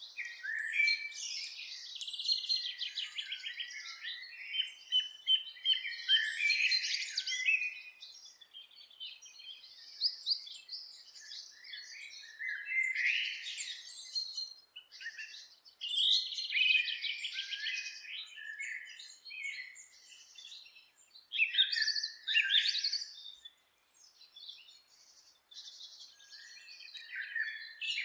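Several forest birds singing and chirping, with overlapping trills and quick chirps, in a dawn-chorus-like mix with brief lulls.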